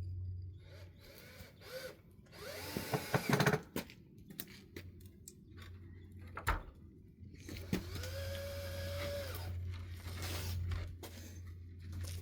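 Power drill running in two goes: a short, rough run with the motor speeding up and slowing, then a steadier whine that winds up and holds for about a second and a half. A single sharp knock falls between the two runs.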